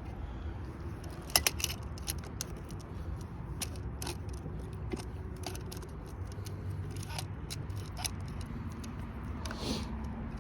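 Work on a car's transmission: scattered metallic clicks and clinks of tools and parts being handled, over a steady low hum.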